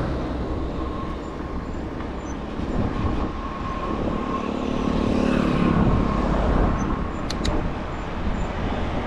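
Wind buffeting the microphone of a camera on a moving bicycle, with tyre and road rumble: a steady, loud low noise that rises a little about five seconds in.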